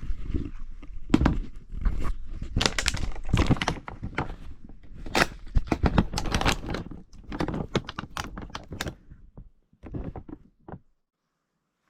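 Hands working with food, packaging and utensils: a dense run of rustling, scraping and knocks, tailing off into a few separate knocks and stopping about eleven seconds in.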